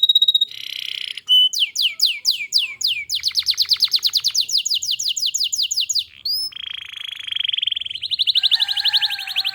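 Domestic canary singing a continuous, loud song of fast trills: long runs of rapid, repeated falling notes, broken by buzzy rolls, with a couple of lower whistled notes held near the end.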